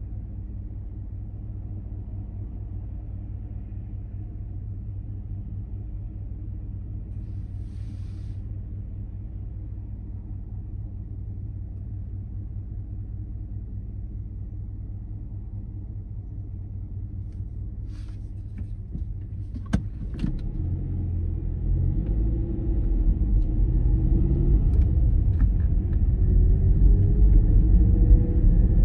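Car engine idling steadily while stopped, heard from inside the cabin. About two-thirds of the way through there is a click, then the engine grows louder and its note rises as the car pulls away and accelerates.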